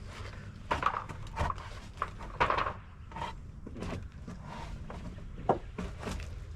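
Irregular knocks and clattering of wooden deck boards being worked loose and handled, with a sharp crack late on, over a steady low rumble.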